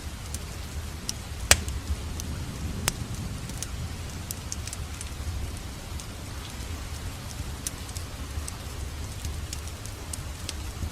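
Wood fire crackling: scattered sharp pops and snaps over a steady low rumble and hiss of burning logs, with two louder pops about a second and a half and about three seconds in.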